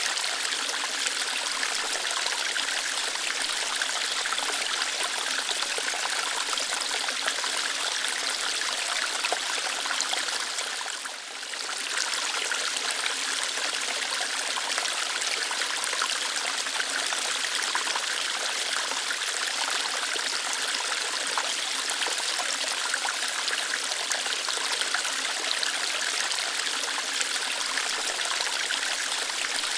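Small waterfall flowing lightly over rocks: a steady hiss of running water, dipping briefly about eleven seconds in.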